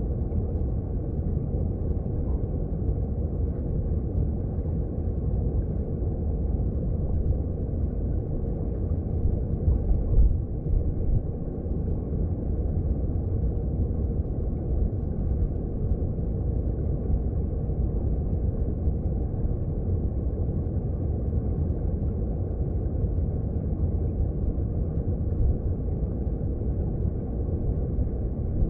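Underwater sound of a mountain stream: a steady low rumble of flowing water heard below the surface, with a brief louder swell about ten seconds in.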